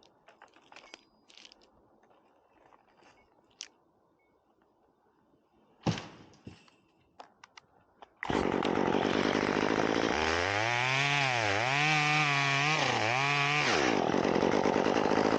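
Faint rustling and clicks of climbing gear, with one sharp knock about six seconds in. About eight seconds in, a chainsaw cuts in loudly and runs at high revs, its engine pitch dipping and recovering several times as it cuts into the dead pine trunk.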